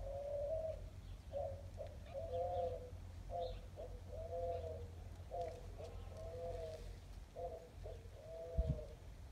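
A bird calling: about a dozen short, low, wavering notes in quick phrases, with a brief thump near the end.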